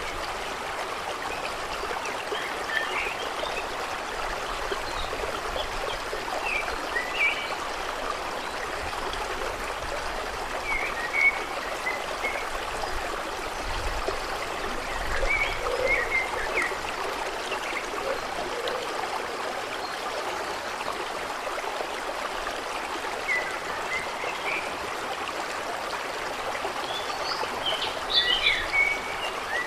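Steady rushing of flowing water, with short bird chirps scattered every few seconds and a small flurry of them near the end.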